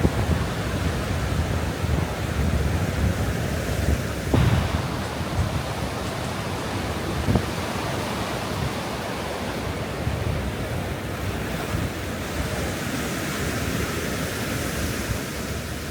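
Ocean surf washing onto a sandy beach, with gusts of wind buffeting the microphone. Two brief thumps come about four and seven seconds in.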